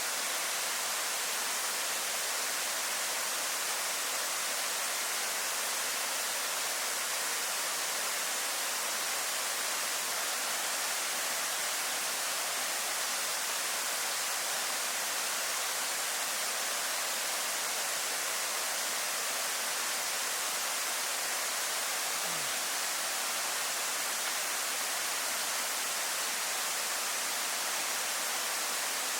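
Waterfall rushing with a steady, even roar of falling water, dense in the high hiss range.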